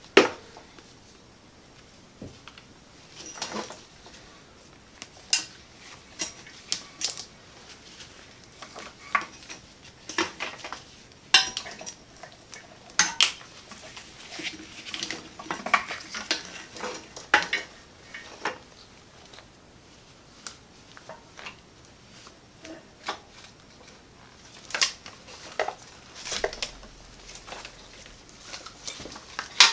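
Irregular light metallic clinks, clicks and clatters of small parts and tools being handled, scattered throughout with short pauses between.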